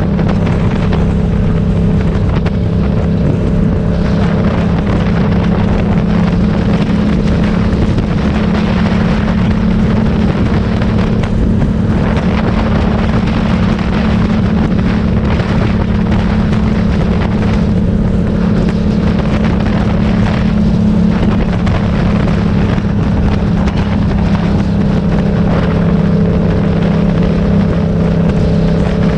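Motorcycle engine running at a steady speed under way, with a constant hum that does not rise or fall, and wind on the microphone.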